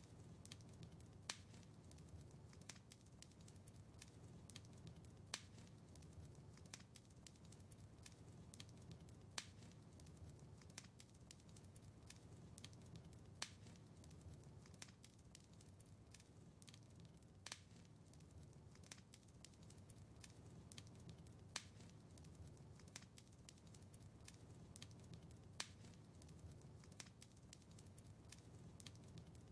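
Faint wood fire crackling in a fireplace: a steady low rumble of flames with frequent small crackles and a louder pop about every four seconds.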